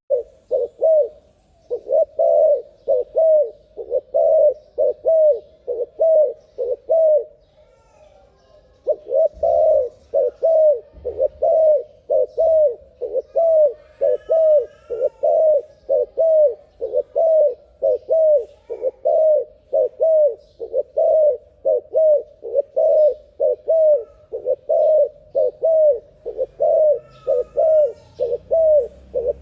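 A terkukur dove cooing in a fast, unbroken run of repeated coos, about two a second. The run pauses for about a second and a half near eight seconds in. Faint chirps from another bird come now and then.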